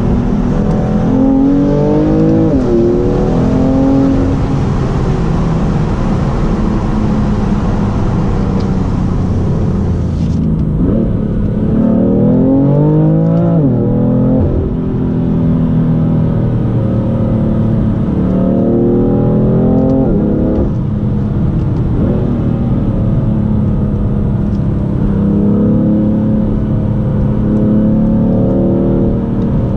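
BMW M3 F80's twin-turbo straight-six running through an M Performance exhaust while driving. Three times the revs climb and then drop suddenly, as at an upshift, with steady running in between.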